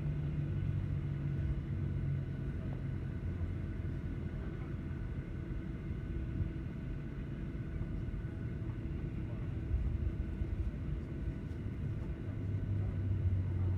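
Airliner cabin noise after landing: a steady low rumble with a few faint steady hums. A deeper hum fades over the first few seconds and comes back near the end.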